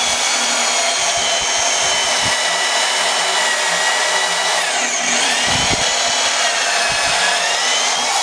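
Handheld angle grinder running and cutting through steel drill rod, a steady high whine that sags in pitch about five seconds in as the wheel bites harder, then recovers.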